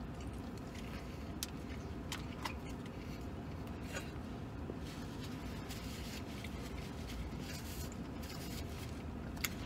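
A man chewing a sandwich, with a few faint clicks and rustles, over a low, steady rumble in a truck cab.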